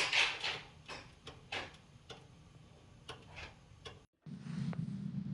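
A series of irregular short clicks and taps, about two or three a second, then a sudden cut a little after four seconds into a steady low hum.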